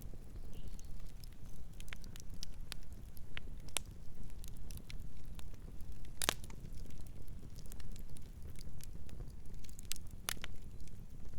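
Campfire burning with a steady low rumble and scattered sharp crackles and pops, two louder snaps about six and ten seconds in.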